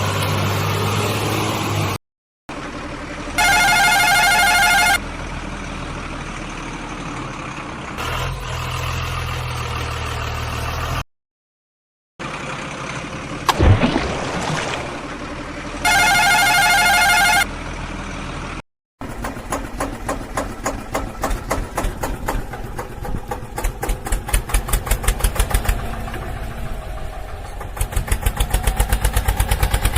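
Edited-in vehicle sound effects broken by abrupt cuts: a steady engine running, a horn sounding twice, then a rapid pulsing that speeds up over the last third.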